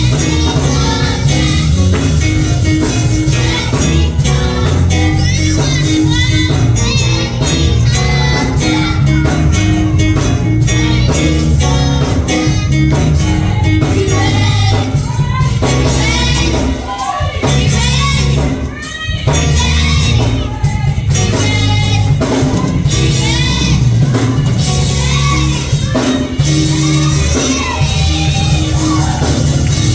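Gospel music in a church service: voices singing over a band with a steady bass line.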